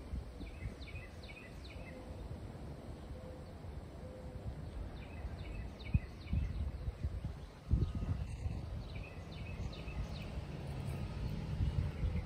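A small bird chirping in three short runs of quick repeated notes, over a constant low rumble with a couple of sharp bumps.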